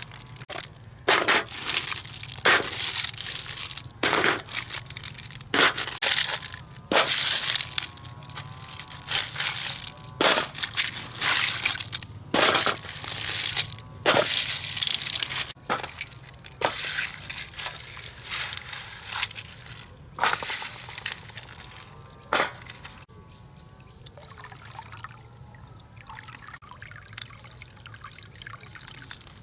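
Water splashing and sloshing in irregular bursts, about one a second, that grow sparser and quieter for the last several seconds.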